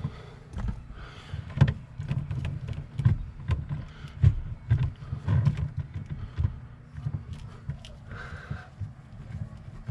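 Irregular knocks, clicks and low thumps of car interior trim being handled and fitted back into place.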